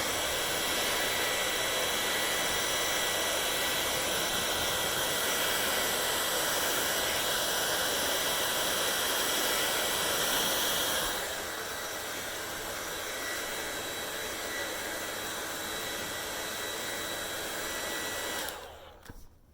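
Hair dryer blowing steadily with a whine. It gets quieter about halfway through, then is switched off near the end and winds down within a second.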